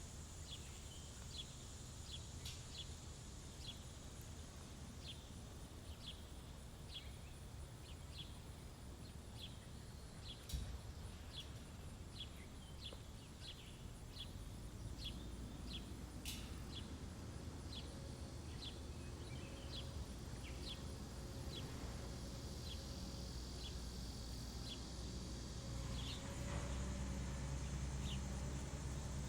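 A small bird repeating a short, sharp chip note about once or twice a second, over a steady high hiss of summer ambience. A low rumble grows louder in the second half.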